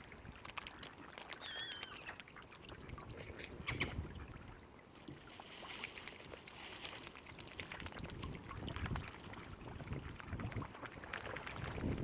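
Lakeshore ambience: water lapping and a low rumble of wind, with a few short warbling bird calls, one about one and a half seconds in and another near four seconds.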